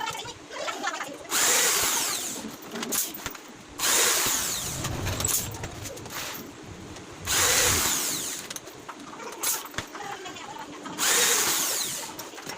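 Power drill running in four short bursts, each starting suddenly and fading over a second or two, during flight case carpentry.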